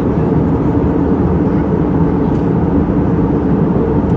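Airliner cabin noise during the landing approach: the engines and rushing air run loud and steady, with a low even hum.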